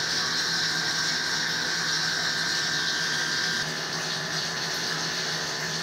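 Ideal Isar gas combi boiler running steadily after a service, its fan, burner and circulating pump giving a constant hum and rush.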